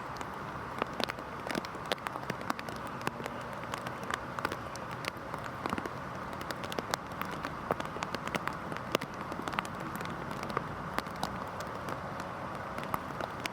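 Steady rain falling, a constant hiss with many sharp individual drop impacts scattered throughout.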